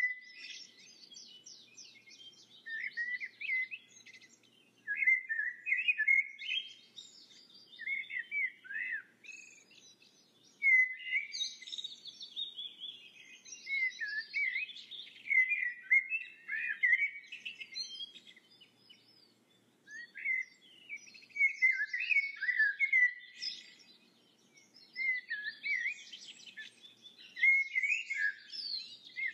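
Birds chirping and singing in a near-continuous stream of quick twittering phrases, each a second or two long, with short pauses between them.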